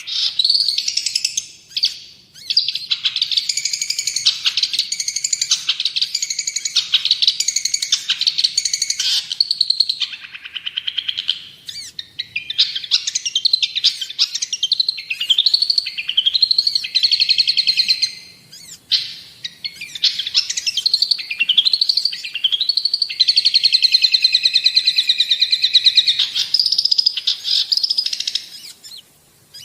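Long-tailed shrike (cendet) singing a fast, varied chattering song of rapidly repeated notes and short glides, broken by brief pauses every several seconds.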